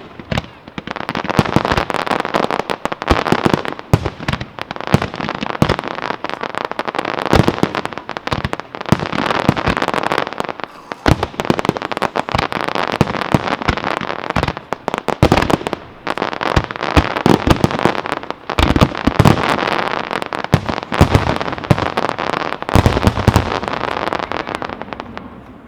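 Fireworks display: a dense, unbroken barrage of rapid bangs and crackling, with heavier deep booms standing out, that dies away at the very end.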